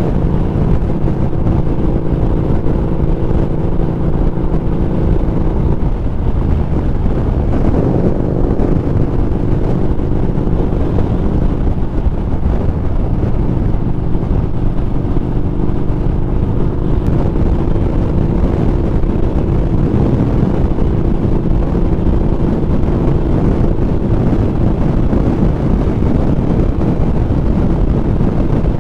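Harley-Davidson Street Rod 750's V-twin engine running steadily while riding, with wind rumble on the microphone. The engine note changes briefly about six to eight seconds in, then settles again.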